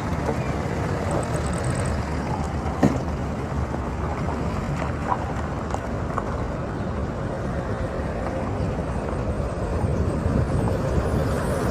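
Steady road and vehicle noise, with a single sharp knock about three seconds in.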